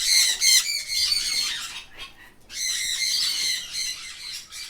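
Parrots screeching, many high-pitched harsh calls overlapping in two spells with a short break about two seconds in.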